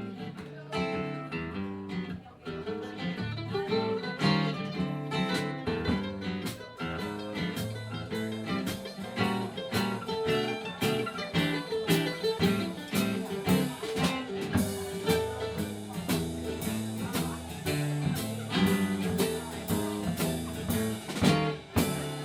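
Live band playing an instrumental passage with no singing: guitar over a bass line and a steady beat.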